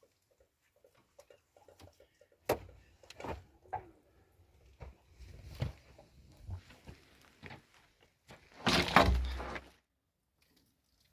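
Several sharp knocks and thuds of hard objects, then a louder scraping rush lasting about a second and a half near the end.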